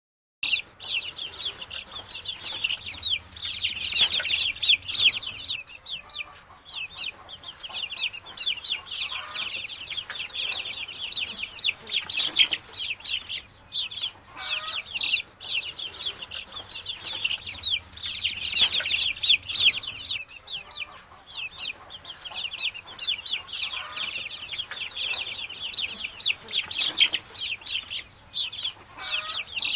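Chickens calling: a dense, continuous chorus of rapid high-pitched cheeping, with a few lower clucks now and then. It starts abruptly just after the beginning.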